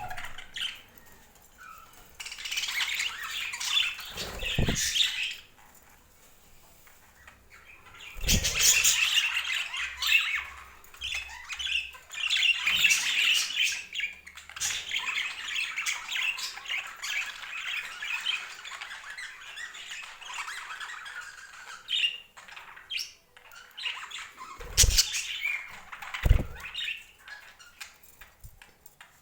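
Pet budgerigars chattering and squawking in long, fast warbling stretches with brief pauses, with a few dull thumps in between.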